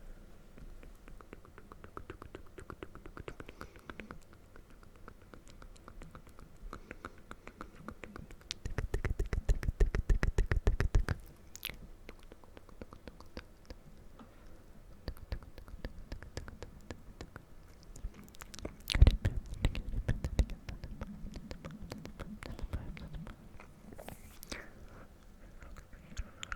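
Close-miked ASMR mouth sounds: runs of rapid small clicks and smacks, with a louder flurry about a third of the way in and one sharp loud click past the middle.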